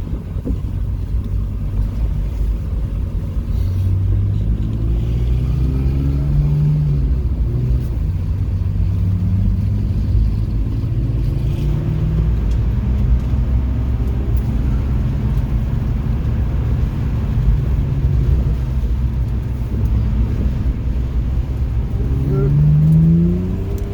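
Car engine heard from inside the cabin, accelerating repeatedly with rising pitch and easing off between pulls. A strong rev climb comes near the end.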